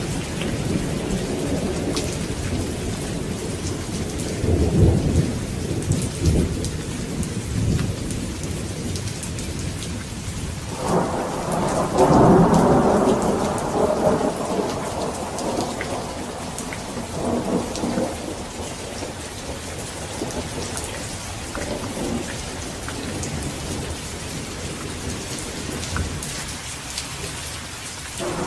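Steady rain falling, with rolling thunder: low rumbles a few seconds in, a louder thunderclap about eleven seconds in that rumbles on for several seconds, and fainter rumbles after it.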